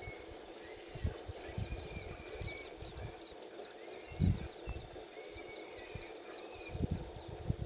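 Bush ambience: a bird calling in a fast run of short falling notes, with other warbling calls, and a few dull low thumps, the loudest about four seconds in.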